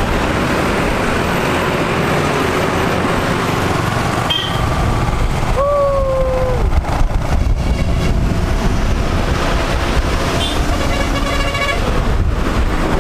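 Motorcycle riding among lorry traffic: a steady engine and wind rumble, with a vehicle horn sounding once for about a second, about halfway through.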